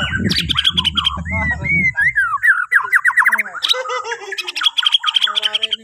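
White-rumped shama of the Borneo form singing a loud, varied song of fast trills, rapid repeated notes and whistled up-and-down phrases. A low rumble sits under the song for the first two seconds or so.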